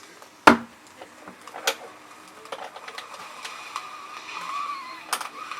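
Sharp clicks and knocks of objects being handled, the loudest about half a second in, then a steady machine whine starting about three seconds in.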